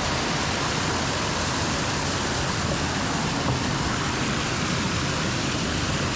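Small creek waterfall rushing steadily: an even wash of falling water.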